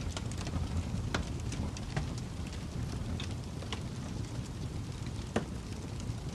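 Fire crackling: a steady low rumble with irregular sharp pops and snaps, one louder snap about five seconds in.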